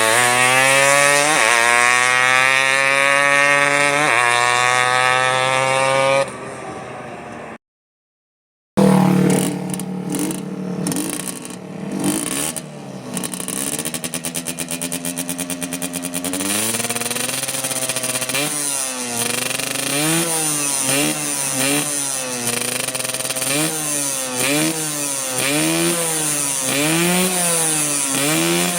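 Two-stroke Suzuki Satria motorcycle engine revving. It climbs steadily in pitch for about six seconds and cuts off, then after a second's silence it idles and is blipped. In the second half the throttle is blipped over and over, about once a second.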